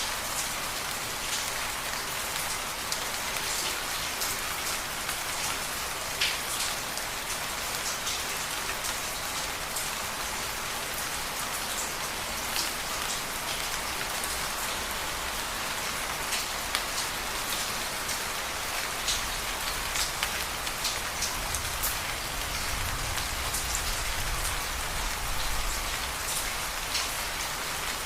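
Steady rain falling, an even hiss with separate drops tapping close by. A low rumble swells from about twenty seconds in and fades a few seconds later.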